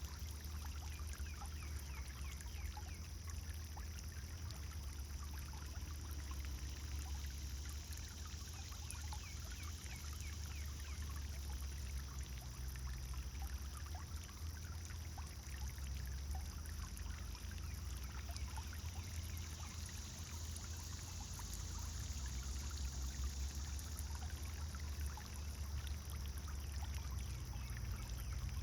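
Pond fountain's water splashing and trickling steadily, over a steady low rumble.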